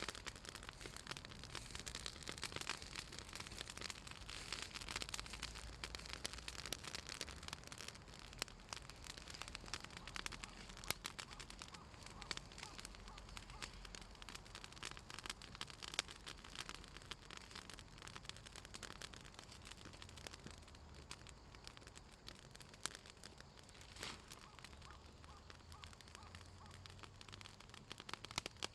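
Southern magnolia branches burning in an open fire, crackling with many sharp little snaps and pops over a steady hiss; the oil in the wood is what makes it crackle. The snapping is busiest in the first half and thins somewhat later on.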